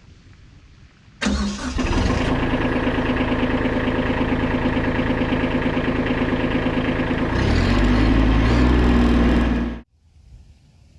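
Gas-powered saw engine running at high speed: it comes in abruptly about a second in, holds a steady pitch, turns deeper and heavier a couple of seconds before the end, and then cuts off suddenly.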